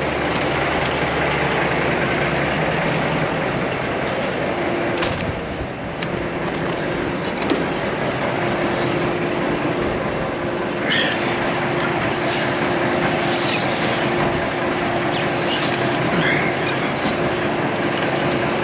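Diesel tractor-trailer truck running steadily, with an even hum and a few light clinks.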